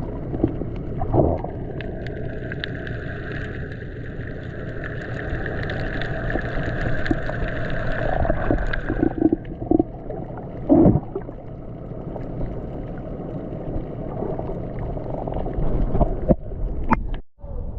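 Steady rushing, rumbling noise of a boat under way on open water, with a few scattered knocks.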